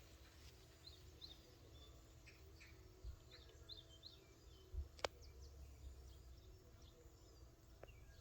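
Faint bird chirps, short and repeated, with one sharp click about five seconds in.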